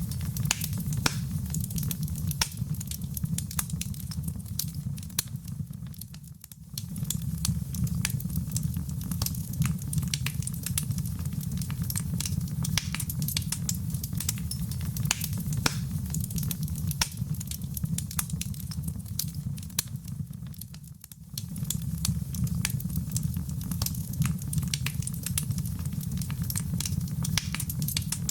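Fireplace fire crackling: many small sharp pops over a steady low rumble. The sound briefly dips and swells back twice, about a quarter of the way in and again about three quarters through, where the recording loops.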